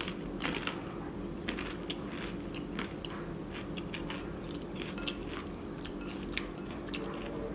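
Close-up crunching and chewing of a crisp corn tostada topped with ceviche: a few sharp crunches near the start, then a running patter of smaller crackles as it is chewed. A steady low hum sits underneath.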